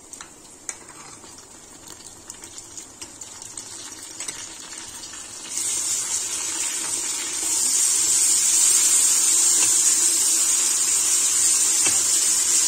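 Ginger-garlic paste frying with browned onions in hot oil in a pressure cooker, stirred with a spoon. At first there are light scrapes and ticks and a faint sizzle. About five and a half seconds in the sizzle comes up suddenly, and from about seven seconds in it is a loud steady hiss.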